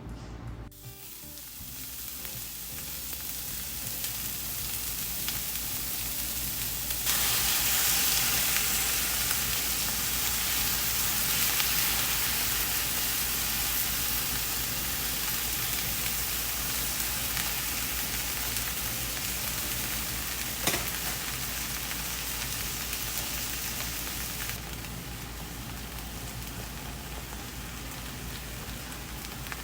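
Heavy rain pouring down in a steady hiss. It swells over the first few seconds, gets louder about seven seconds in, and eases a little near the end, with a single sharp click a little past the middle.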